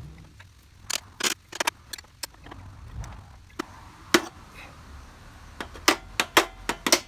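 Irregular sharp knocks and clicks of hand work on a mower part as it is worked loose: a few strikes about a second in, one near the middle, then a quicker run of them near the end.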